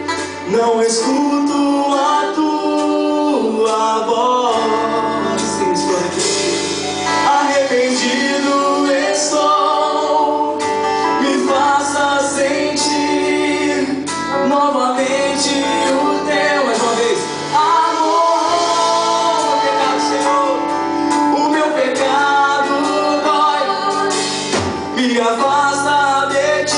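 Gospel song, with male and female voices singing together over instrumental accompaniment.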